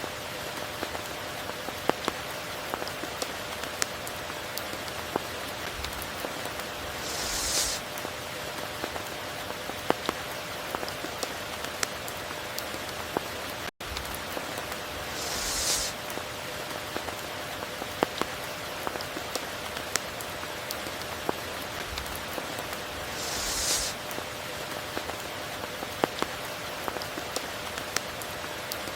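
Steady tropical rain: an even hiss dotted with sharp ticks of single drops, with a brief hissing swell about every eight seconds. The sound cuts out for an instant about halfway through.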